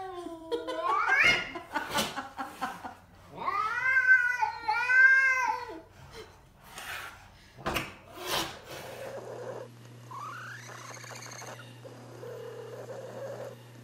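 Domestic cat making drawn-out, wavering meows: one long bending call at the start and two arched calls around four to five seconds in, then a few clicks and fainter rising calls over a steady low hum in the second half.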